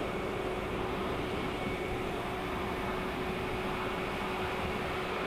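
Pet grooming blow dryer running on its low setting: a steady rush of air with a constant hum.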